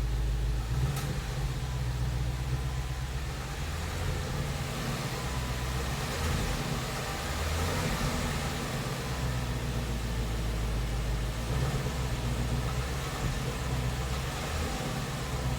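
2017 Ford Mustang GT's 5.0-litre V8 running steadily at low revs, with the knocking and ticking that the owner hears between 1000 and 1500 rpm; Ford's dealers call it normal, the owner takes it for an engine fault.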